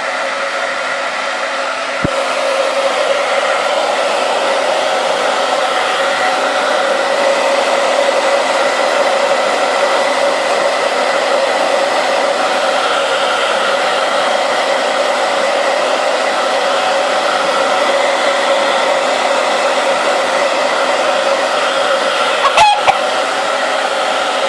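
Hair dryer running steadily, a constant whir with a fixed tone through it, blowing on a rooster's feathers; a click about two seconds in, after which it runs a little louder. Two brief knocks near the end.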